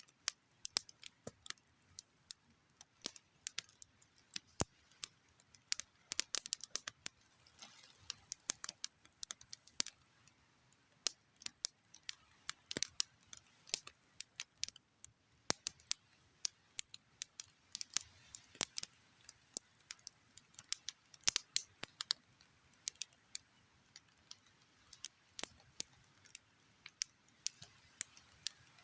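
Campfire crackling: burning wood popping and snapping in quick, irregular clicks over a faint hiss.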